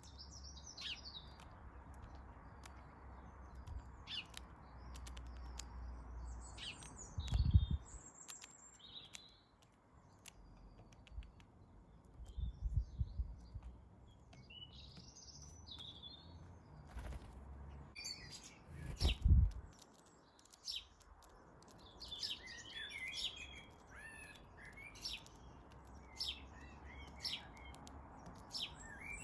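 Small garden birds at a feeder chirping and tweeting in short, frequent calls. A few loud low thumps or rumbles come through about a quarter of the way in, near the middle and about two-thirds of the way in.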